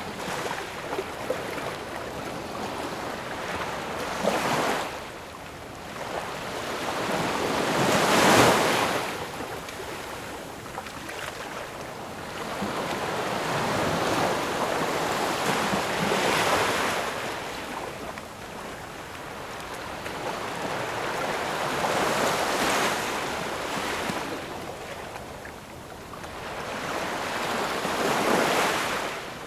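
Ocean waves breaking on a shore, each swell of surf rising and washing out, about one wave every six seconds, with the loudest break about eight seconds in.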